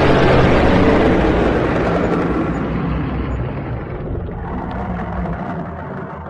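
Dragon roar sound effect: one long, noisy roar with a deep rumble underneath, slowly fading over several seconds.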